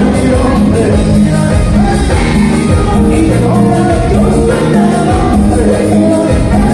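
Loud live band music with singing, played over a PA and heard in a large hall.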